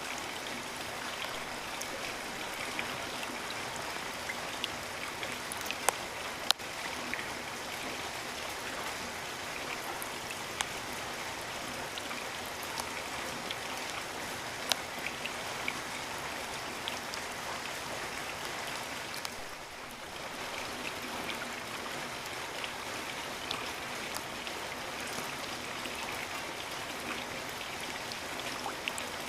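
Steady rain hissing, with individual drops ticking sharply on top; a few louder drop hits stand out, and the rain eases slightly for a moment about two-thirds of the way through.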